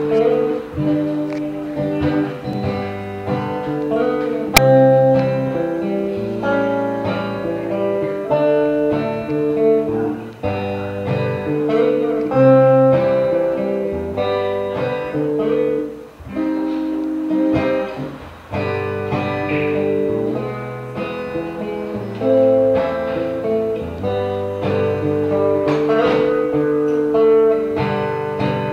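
Acoustic guitar playing an instrumental introduction, plucked and strummed chords changing every second or two.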